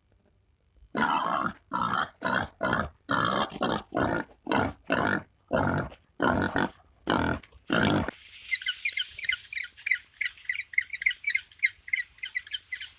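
About a dozen short, harsh animal calls in quick succession, starting about a second in. After them, a rapid, continuous run of high-pitched bird chirps.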